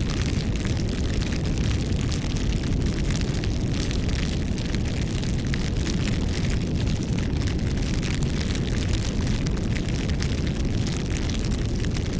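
Bonfire burning: a steady low rush of flames with dense small crackles and pops from the burning wood.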